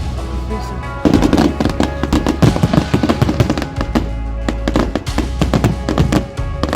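Fireworks going off in rapid crackling bangs, much denser from about a second in, over background music with a steady bass.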